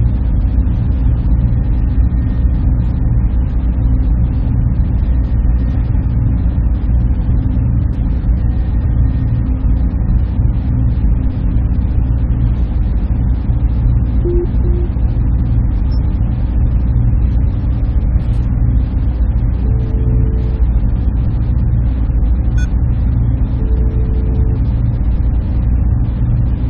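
Server room machinery running: a steady, loud, low hum and rush of cooling fans and air handling, with a few faint short tones in the second half.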